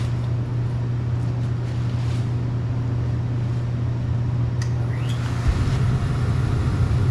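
Steam pressure washer's diesel burner lighting: a steady machine hum runs on, and about five and a half seconds in it turns into a louder, rougher rumble as the burner catches and starts firing.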